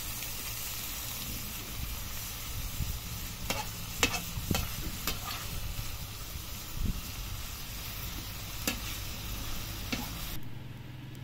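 Food sizzling as it fries in a pan, with a cooking utensil knocking against the pan now and then as it is stirred. The sizzle cuts off about ten seconds in.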